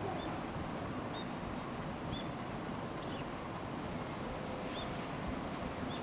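Outdoor ambience: a steady low background rumble, over which a small bird gives short, high chirps about once a second and one quick falling call about halfway through.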